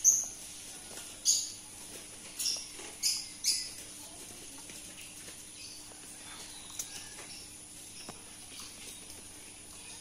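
A small bird chirping: five short, sharp high-pitched chirps in the first four seconds, then quiet apart from a faint steady hum.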